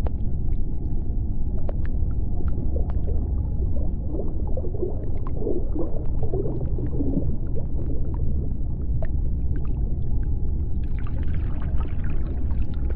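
Underwater sea-floor ambience: a steady deep rumble with scattered sharp clicks and a faint steady hum, and warbling calls rising out of it about four to seven seconds in.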